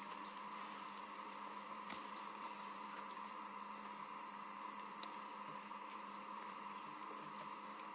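A steady drone made of several constant tones, one low and a few high-pitched, with a faint click about two seconds in and another about five seconds in.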